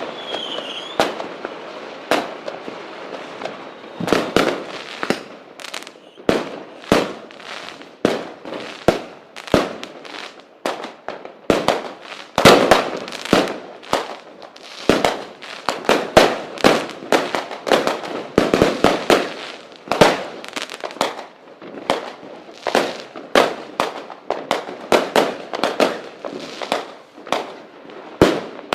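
Fireworks sound effect: a dense, irregular run of sharp bangs and crackles, several a second, with a brief whistle near the start.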